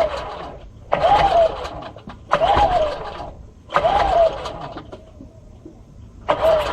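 Small petrol engine being pull-started by hand: about five sharp pulls on the starter cord, each a short whirring crank that rises and falls in pitch, roughly a second and a half apart with a longer pause before the last. It cranks without catching and running.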